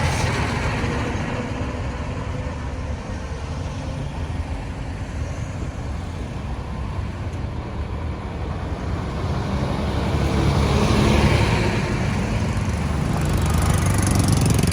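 Busy road traffic: a steady rumble of engines and tyres, growing louder about ten seconds in.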